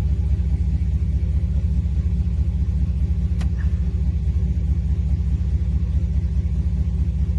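Vehicle engine running steadily, a low rumble with a fast, even pulse.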